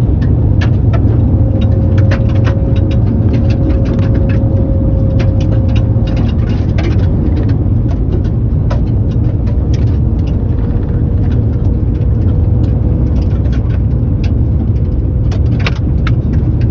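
Vehicle driving, heard from inside: a steady loud low road-and-engine rumble with a faint steady whine and scattered light ticks.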